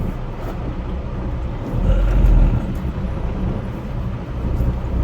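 Freight train of empty coal cars passing: a steady low rumble and rattle, with a stronger low surge about two seconds in.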